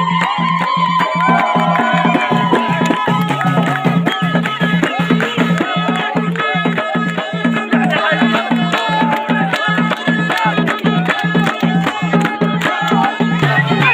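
Moroccan ghaita (shawm) playing an ornamented, bending melody over a steady drum beat of about three strokes a second, in traditional Jebli folk style.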